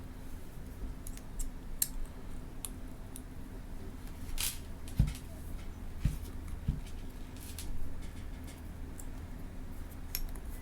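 Small hard parts being handled: scattered light clicks and ticks, a short scrape, then three dull knocks in the middle, over a steady low hum.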